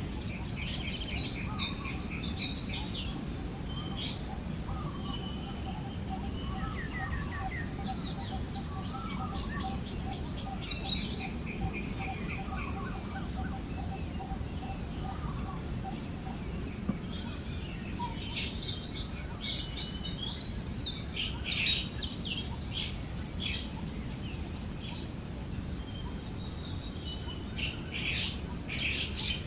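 Forest birds chirping and calling over a steady, high-pitched insect drone and a low breeze-like rumble. A fast, even low trill runs through the first half, and the chirping thickens in the second half.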